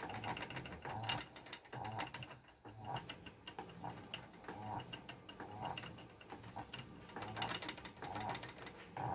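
Spinning wheel running in a steady rhythm, clicking and knocking a little over once a second as it spins yarn.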